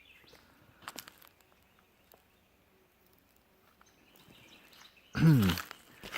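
Footsteps crunching over cleared brush and debris, with a few faint crackles. Near the end comes a short, loud sound that falls in pitch.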